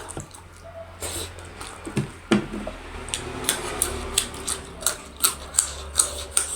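Close-up mukbang eating sounds: chewing with sharp, wet mouth clicks. The clicks come irregularly at first, then settle into about three a second from halfway through, over a low steady hum.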